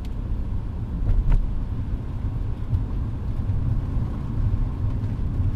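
Steady low rumble of a car driving, heard from inside the cabin: engine and tyres on a wet, salted road, with a faint tick about a second in.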